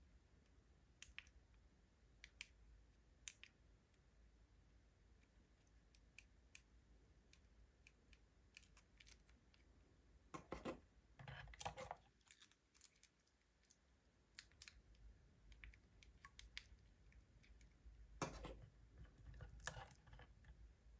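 Quiet handling sounds: scattered small clicks and taps, with a couple of longer rustling, scraping stretches about halfway through and again near the end.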